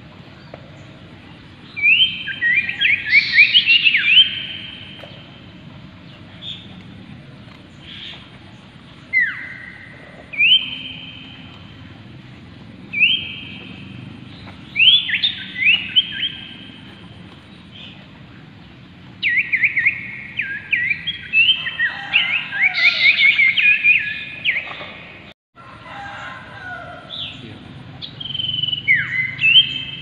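Common iora (Aegithina tiphia) singing: phrases of clear whistled notes and quick falling chattering notes, coming every few seconds, the longest run about two-thirds of the way through. A steady low hum lies underneath.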